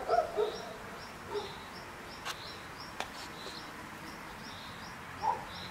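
A bird calling over and over: a steady series of short, high chirps, about two a second, over faint outdoor hiss. Two sharp clicks come near the middle.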